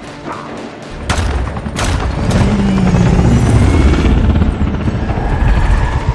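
Action-movie sound mix: two sharp shots or impacts in the first two seconds, then the loud, steady low rumble of a helicopter, with film score underneath.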